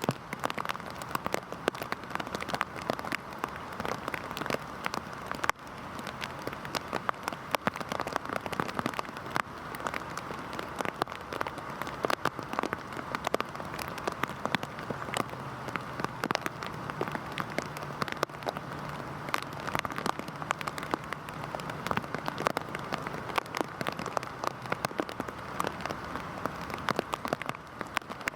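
Heavy rain falling steadily, with a dense spread of sharp individual drop impacts on a surface.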